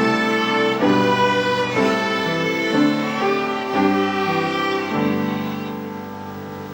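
Second-grade children's violin ensemble playing bowed, sustained notes that change about once a second, then settling on a long held note that fades near the end.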